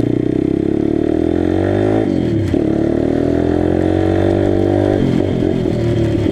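Pit bike's small single-cylinder engine pulling under throttle: it revs up, drops sharply at a gear change about two seconds in, climbs again, then falls back to low, lumpy revs near the end as the throttle is closed.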